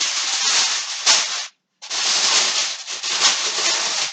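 Aluminium foil being crinkled and rubbed down over a roasting pan: a loud, continuous scraping rustle in two long stretches with a brief gap about one and a half seconds in.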